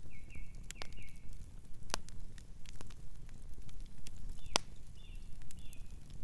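Wood fire crackling, with a low rumble under many sharp pops and two louder snaps. A distant bird chirps in two short runs of quick high notes, near the start and again past the middle.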